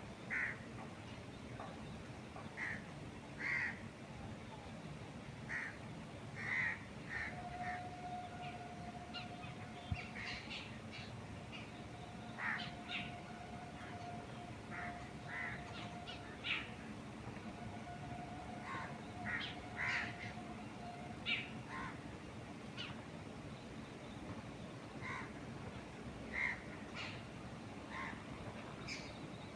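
Birds calling outdoors: short calls repeated every second or two over a steady low background of wind. Through the middle a faint thin steady tone sounds on and off.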